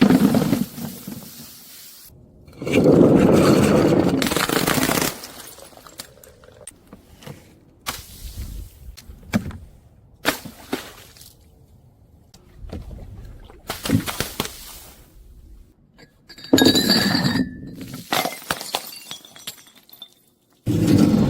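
Glass bottles being crushed and shattering: several loud bursts of crunching, breaking glass, with scattered clinks and crackles of shards in between.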